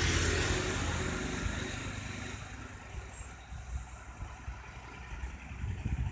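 Isuzu tow truck's engine running steadily, with a loud rush of noise at the start that fades over the first two seconds.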